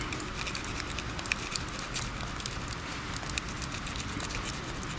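A bait knife cutting into a fish on the ground: a dense, irregular run of small crackling ticks over a faint hiss.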